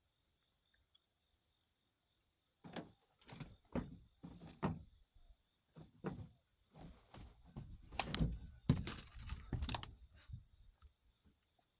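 A run of irregular knocks and thumps with rustling, starting a couple of seconds in and dying away near the end, over a steady high insect trill.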